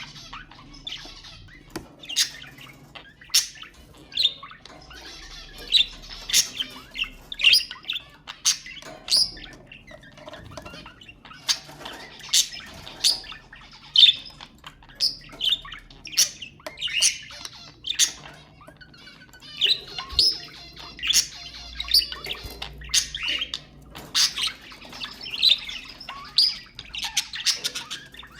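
Budgerigars chirping and chattering: a steady run of short, sharp calls and warbling twitters.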